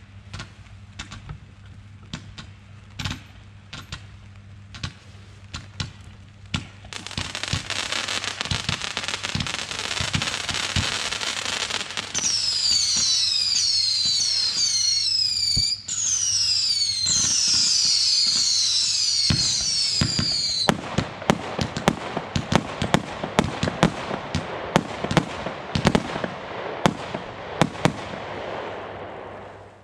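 A consumer fireworks battery firing: scattered pops, then dense crackling, then many shrill whistles falling in pitch, several overlapping, followed by rapid bangs and crackle that stop abruptly near the end.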